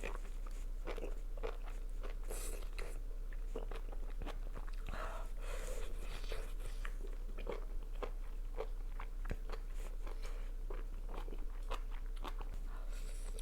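Close-miked eating: biting and chewing with crunchy, wet mouth sounds and many small clicks, and a few louder noisy bursts about two and a half, five to six and thirteen seconds in.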